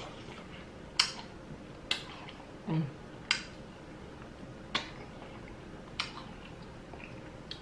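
Mouth sounds of a person chewing juicy watermelon: five sharp wet lip smacks about a second or so apart, with a short "mm" hum about three seconds in.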